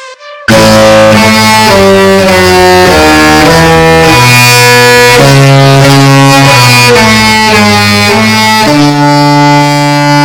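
The Disney Magic's musical ship's horn sounding a melody in chords, very loud, its held notes changing step by step.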